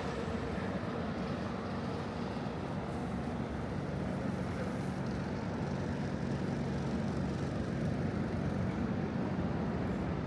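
Steady city street traffic noise, with the low drone of a vehicle engine running close by, strongest in the middle.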